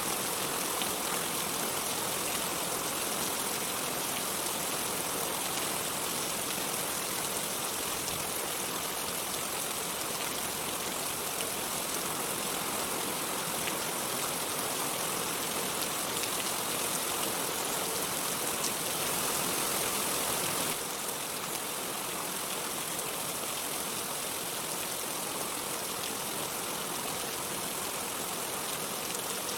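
Steady rain, an even hiss with no thunder; it steps slightly quieter about two-thirds of the way through.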